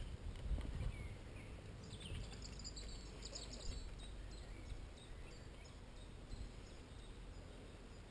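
Birds chirping high and briefly, about two seconds in for a couple of seconds, over a low steady rumble on the microphone.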